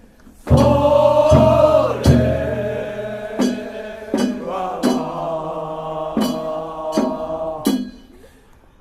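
Men chanting a traditional Japanese boat song (funauta) together in long held notes, with a sharp knock marking the beat about once a second. The sung phrase starts about half a second in and dies away about a second before the end.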